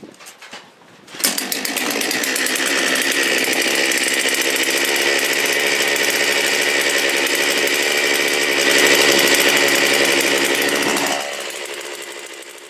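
Holzfforma G660 two-stroke chainsaw running hard at steady high revs for about ten seconds, a little louder near the nine-second mark. The throttle is then let off and the engine falls away near the end.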